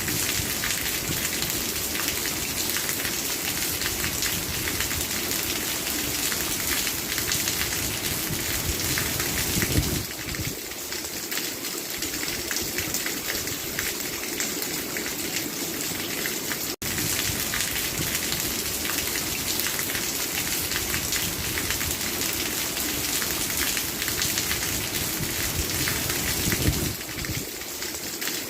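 Steady rain falling on a surface: a dense, even hiss of many drops, with a split-second break a little past halfway.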